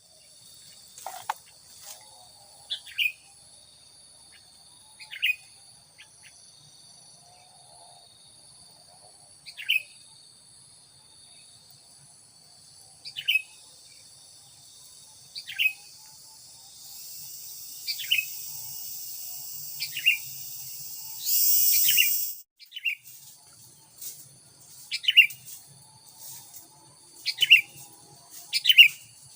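Sooty-headed bulbul giving short, sharp calls, one every two to three seconds, several in quick pairs near the end. Behind them runs a steady high insect drone that swells louder for a few seconds around the middle.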